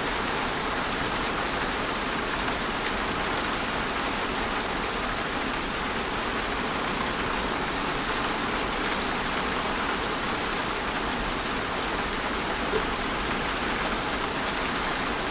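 Steady rainfall, an even patter of raindrops on a surface.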